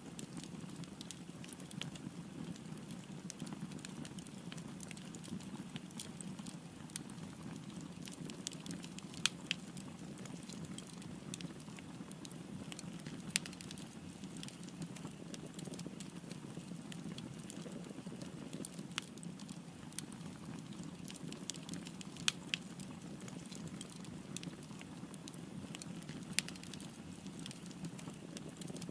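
Wood fire burning: a steady low rumble of flames with frequent sharp crackles and pops, a handful of them louder snaps.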